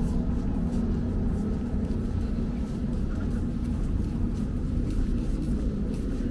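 Steady low rumble of motor vehicles, with a few faint ticks over it.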